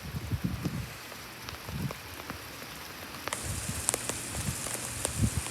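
Rain falling steadily, with many scattered sharp ticks of single drops landing close by and a couple of soft low thumps.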